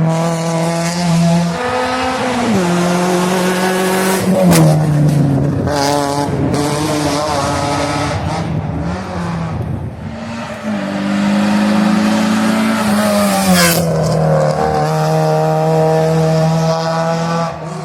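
Race car engine heard onboard, revving hard. Its pitch climbs and drops back several times as the driver shifts gears and brakes between bends.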